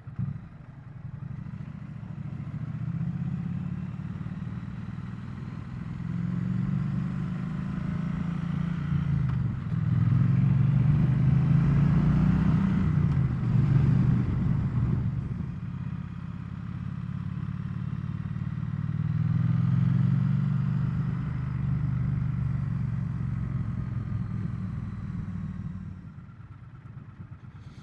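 Triumph Bonneville T100's parallel-twin engine running under way, its pitch rising and falling repeatedly as the bike speeds up and slows. It is loudest around the middle.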